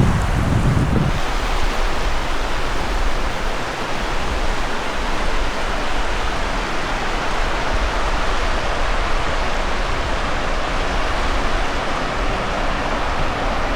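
Surf on the Sea of Cortez, a steady unbroken rush of waves washing onto the beach. A brief low rumble comes in the first second.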